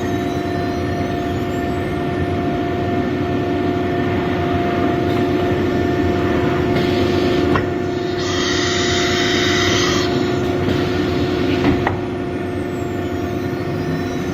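ATC CNC wood router running: a steady whine over machine noise, with faint rising and falling high whines. About eight seconds in, a louder, brighter stretch lasts about two seconds, and a single click comes near the end.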